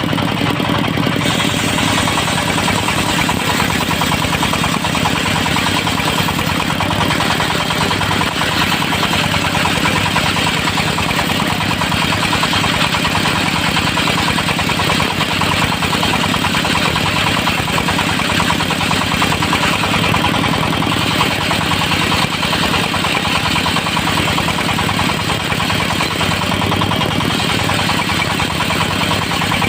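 Diesel engine driving a portable circular sawmill, running steadily under a constant hum. A brighter hiss comes in about a second in and then holds steady.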